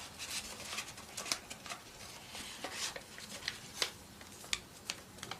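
A sheet of paper being folded and creased by hand, giving a run of small, irregular crinkles and crackles.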